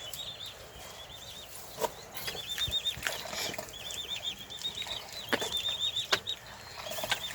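Chickens calling in runs of quick, high-pitched chirps, with a few sharp knocks in between.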